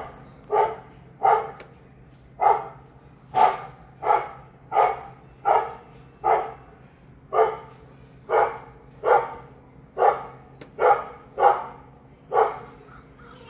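A dog barking at birds in a steady run of single, evenly spaced barks, about three every two seconds.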